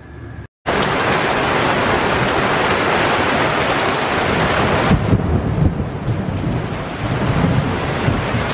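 Heavy rain pouring down, a dense steady hiss that starts suddenly about half a second in. About five seconds in it turns deeper, with a low rumble under the rain.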